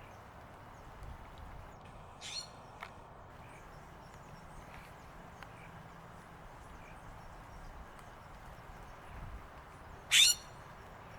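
Bird calls outdoors: two short, harsh calls, a weaker one about two seconds in and a loud one near the end, with a few faint chirps in between.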